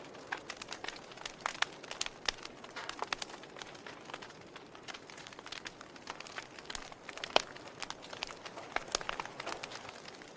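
Wood fire burning with irregular crackles and pops over a soft steady hiss, one sharper pop about seven seconds in.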